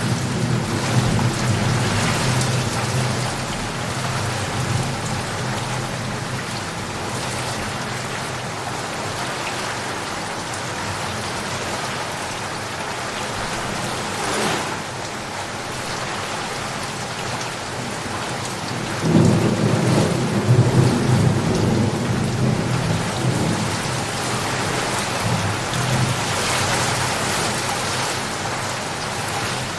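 Steady rain falling, with thunder rumbling low under it; a louder roll of thunder comes about two-thirds of the way through and fades over a few seconds.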